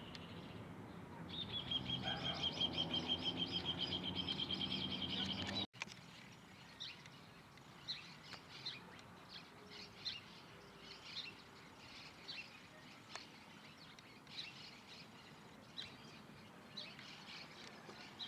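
Birds singing: a fast, even trill of rapid high notes for about four seconds, then, after an abrupt cut, a run of short separate chirps about once a second.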